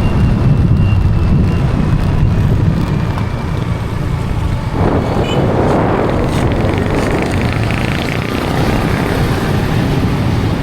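Steady engine and road rumble heard while riding in an open vehicle. About halfway through, a louder rushing hiss from wind or a passing vehicle joins in.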